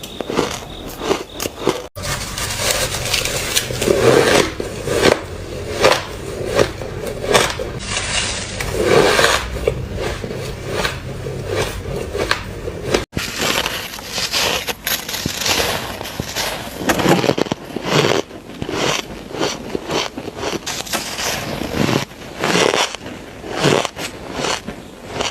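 Mouthfuls of shaved ice bitten and crunched close to the microphone, one crunch after another at an uneven pace, with two abrupt cuts between takes.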